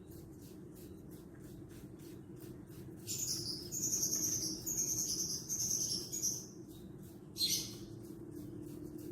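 A bird singing a rapid, high, chirping song for about three seconds, starting about three seconds in, with a shorter burst near the end. A faint high ticking repeats about four times a second, over a steady low hum.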